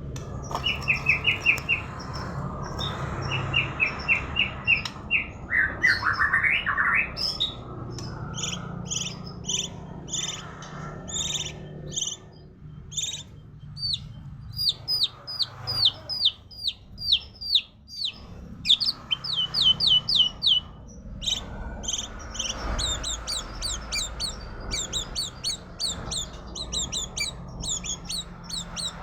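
A murai singing a fast, varied song: runs of quickly repeated notes, trills and sharp downward-sweeping whistles in rapid series.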